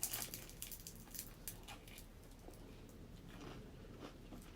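Close-up chewing of a mouthful of rice and scrambled egg: a quick run of soft, wet mouth clicks for the first couple of seconds, then fainter, scattered chewing.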